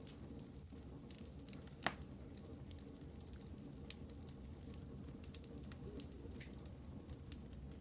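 Wood fire in a fireplace crackling, with a steady run of small ticks and snaps and one sharp louder pop just under two seconds in, then a smaller one about two seconds later.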